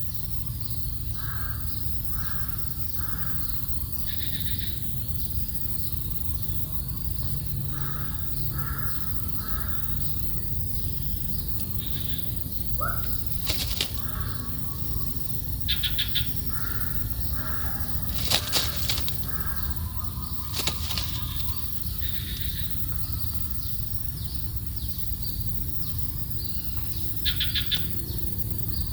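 Small birds chirping in short, scattered calls over a steady low rumble, with a few sharp clicks in the middle.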